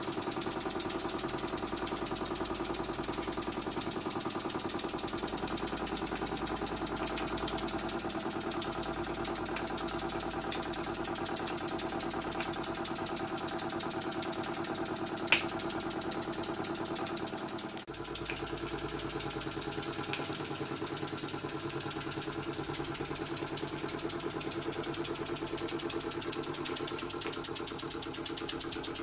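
Model steam engine running steadily under load, driving a belt-driven Baker fan: a fast, even chuffing rhythm with a steady whir. A single sharp click comes about halfway through, and shortly after the sound dips briefly and settles into a slightly different tone.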